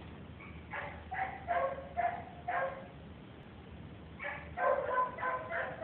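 A dog giving short, high-pitched whines and yips in two runs of several calls each.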